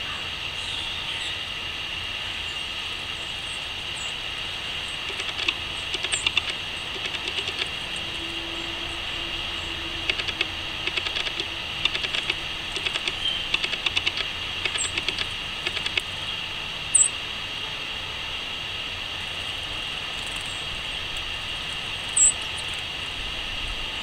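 Small birds at a garden seed feeder: bursts of rapid clicks and taps through the middle, then two short, sharp high chirps later on, over a steady high-pitched drone.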